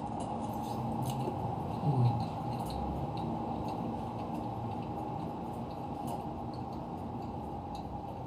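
Close-miked chewing of a mouthful of dal and rice, with faint spoon clicks, over a steady background hum; a short louder low sound about two seconds in.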